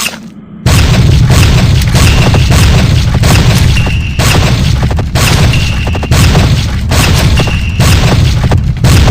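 Very loud, distorted booming bass that starts abruptly just under a second in, with a short high tone recurring about every second and a half.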